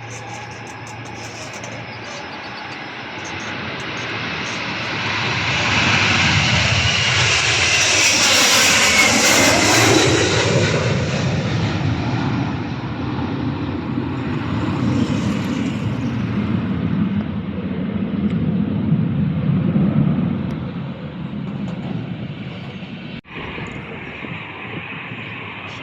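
An airliner's engines passing close overhead: the noise builds over several seconds, is loudest about eight to ten seconds in with a sweeping, shifting tone as it passes, then trails off into a low rumble that fades away after about twenty seconds.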